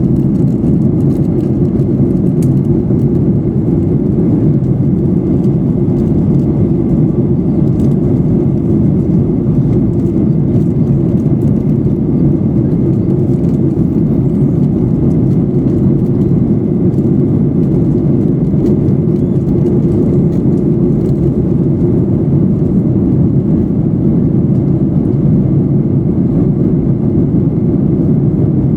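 Steady cabin noise inside a Boeing 737-800 in flight: an even, low rush of airflow and engine noise, unchanging throughout.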